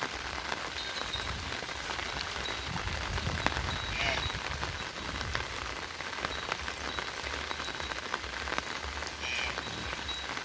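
Steady rain falling, with many small drop ticks close by. Two brief high chirps come through, about four seconds in and again near the end.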